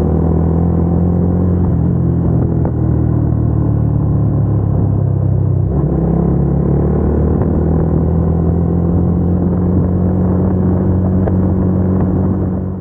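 Suzuki Gixxer 250's single-cylinder engine running steadily under way, with a slight shift in pitch about halfway through.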